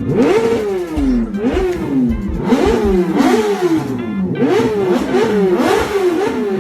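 Inline-four superbike engine revved again and again with throttle blips. Each blip rises quickly in pitch and falls back, and the blips come shorter and quicker near the end.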